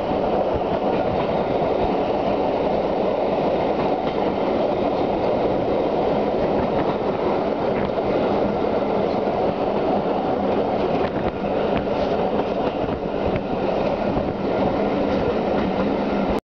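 Steam-hauled passenger train carriage running steadily along the line: a constant rumble of wheels on the track with occasional faint clicks from the rails and a faint low hum.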